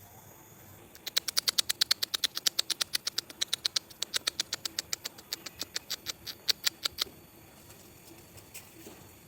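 An animal call: a fast, even run of sharp chirps, about six a second, starting about a second in and stopping abruptly about seven seconds in.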